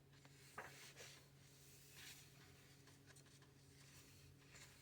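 Near silence: faint rustles and soft clicks of paper book pages being handled and turned, over a low steady hum.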